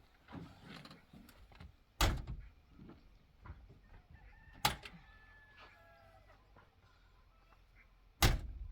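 Three sharp thuds, about two and a half to three and a half seconds apart, with a brief faint chicken call after the second.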